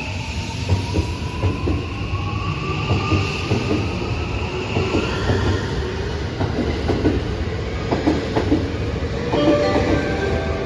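Keihan electric train running on the rails: a low rumble with wheel knocks over rail joints, and a motor whine that slowly rises in pitch as it gathers speed.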